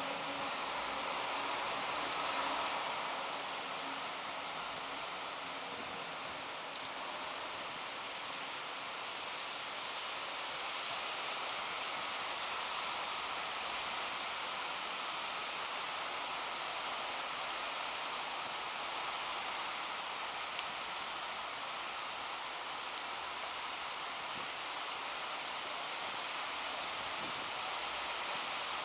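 Steady rain falling during a thunderstorm, with a few sharp ticks of single drops hitting close by now and then.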